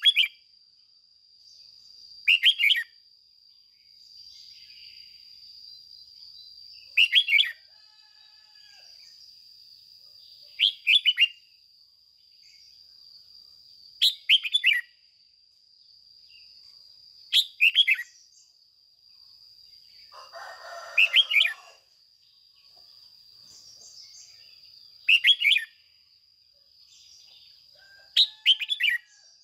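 Red-whiskered bulbul singing short, quick phrases of falling notes, one phrase every three to four seconds, over a steady high-pitched whine.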